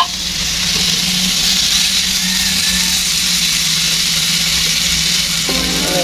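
Corned beef and shredded cabbage sizzling in hot oil in a pan, a steady hiss over a low steady hum. Near the end, music with held tones comes in.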